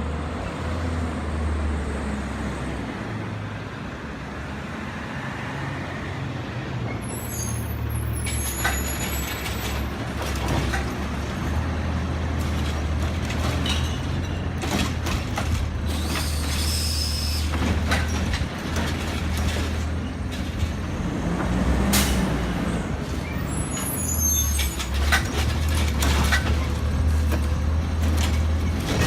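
Garbage truck engine running steadily, with high squeals and a run of knocks and clanks starting about a quarter of the way in, and one sharp crack past the middle.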